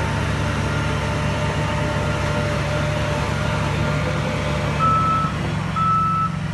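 Heavy diesel earthmoving machine running steadily. Near the end a reversing alarm beeps twice, about a second apart.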